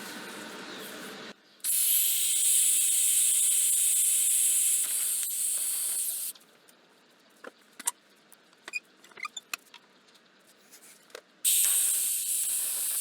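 Two bursts of hissing spray, the first lasting about five seconds and the second about two seconds near the end, with scattered small clicks and ticks between them.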